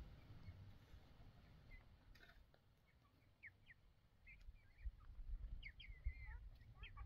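Near silence with faint, scattered bird chirps, a few short notes at a time, coming more often in the second half, over a faint low rumble.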